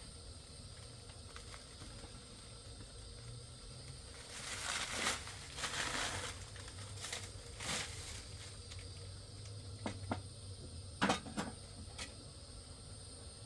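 Rustling, like something crinkly being handled, in two stretches near the middle, followed by a few sharp clicks, over a low steady rumble.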